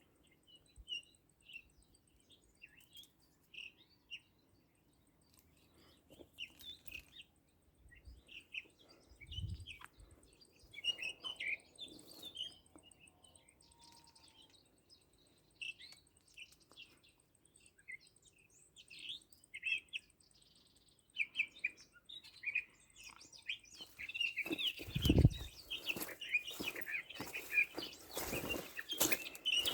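Small songbirds chirping in short, scattered calls that grow much busier near the end, with a couple of low thumps along the way.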